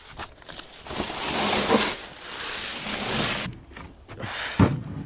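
A man with a head cold blowing his nose: a long rushing blast of breath lasting a few seconds, followed by a short voiced sound near the end.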